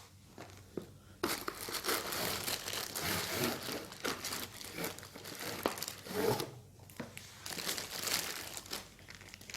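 Unboxing packaging being handled and crinkled: rustling plastic or paper wrapping with small crackles and clicks. It starts about a second in, with a short pause about two-thirds of the way through.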